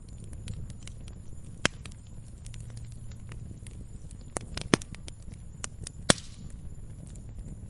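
Log fire crackling, with scattered sharp pops of burning wood, three louder ones about one and a half, four and a half and six seconds in, over a low steady rumble of the flames.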